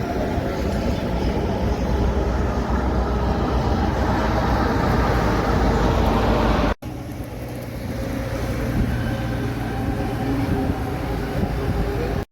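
Passing truck traffic: a continuous heavy-vehicle rumble and tyre noise. It cuts off abruptly about two-thirds of the way through and gives way to a slightly quieter, steady engine hum.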